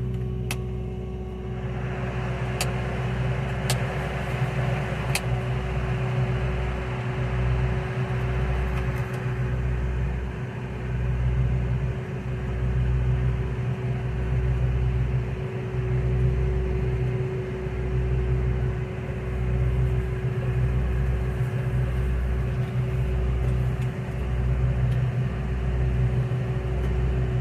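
RV rooftop air conditioner running just after being powered on: a rushing sound comes up about two seconds in over a steady hum, with a low throb about once a second.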